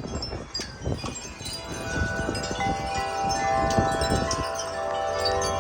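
Wind chimes ringing in strong gusty wind, several notes struck and left ringing over one another. A low wind rumble runs underneath.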